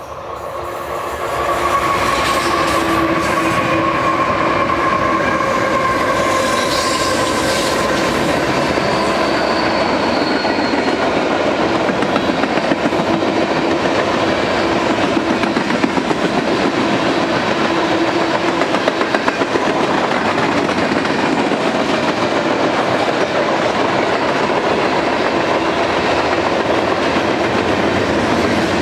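Empty freight cars of a manifest train, mostly tank cars, rolling past on steel rails: a steady rumble of wheels with clickety-clack over the rail joints. A pitched whine sounds over the rumble and fades away during the first half.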